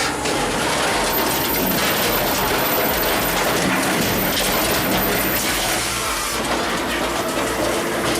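Circular-saw firewood processor running, with a steady mechanical clatter and rattle.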